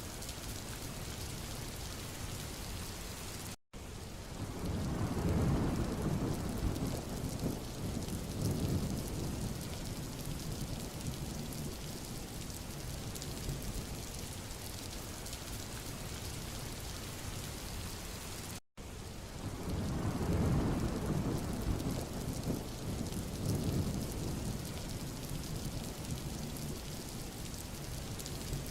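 Steady hiss of rain falling on a road. Twice, about 15 seconds apart, the sound cuts out for an instant and a low rumble swells up for several seconds before easing back into the rain.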